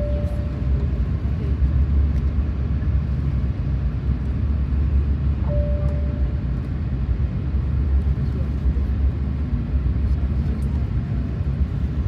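Steady low rumble of cabin noise inside an Airbus A380 on the ground before take-off, from its engines and air system, with two brief faint tones, one at the start and one about five and a half seconds in.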